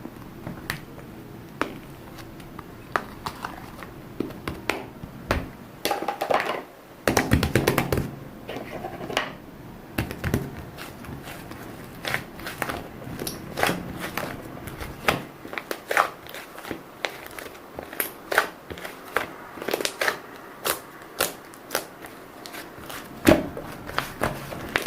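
Irregular clicks, taps and crinkling from objects being handled by hand, with a denser, louder crinkling stretch a few seconds in.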